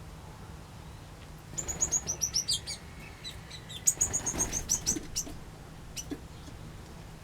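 Small aviary birds chirping: two quick runs of high, sharp chirps, several a second, then a few single chirps near the end, over a low steady hum.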